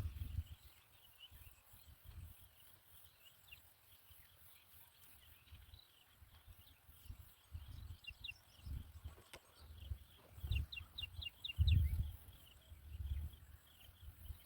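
Faint, high-pitched small-bird chirps, scattered and short, with a quick run of about five chirps a little past the middle. Irregular low thuds come in the second half.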